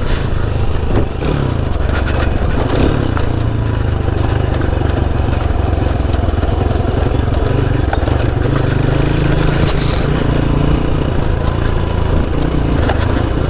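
C90 off-road motorcycle's small single-cylinder engine running steadily at low revs, with a few knocks from the bike in the first few seconds.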